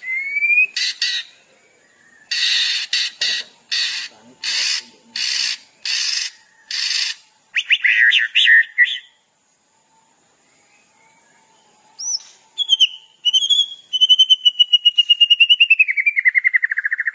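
Songbird calls and song: a run of harsh, rasping notes about one and a half a second, a short burst of quick notes, then after a pause a long, fast trill that slowly falls in pitch.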